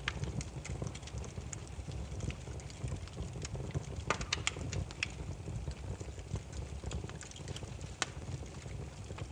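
Burning firewood in a campfire crackling: irregular pops and snaps over a low steady rumble of flame, with a cluster of sharper pops about four seconds in and one loud pop near the end.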